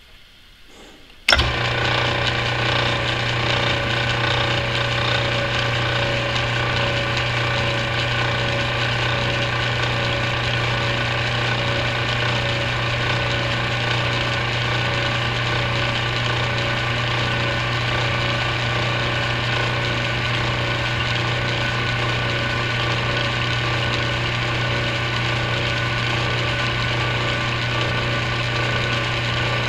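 Antique Atlas metal lathe switched on about a second in, then running steadily with a constant hum, turning a drill bit in its headstock chuck to drill a rod held on a crotch center in the tailstock.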